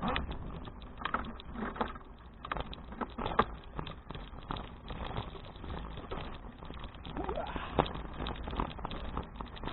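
Bicycle rattling and clicking as it is ridden over uneven pavement, with irregular knocks and a low rumble of wind on the microphone; a short rising squeak about three quarters of the way through.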